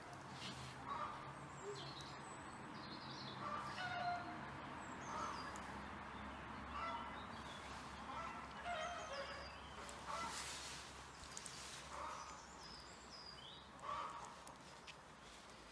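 Faint bird calls: short repeated calls about every second or two, with higher chirps between them.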